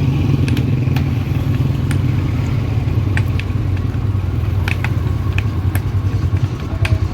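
An engine running steadily with a low rumble, with scattered sharp clicks and clanks over it.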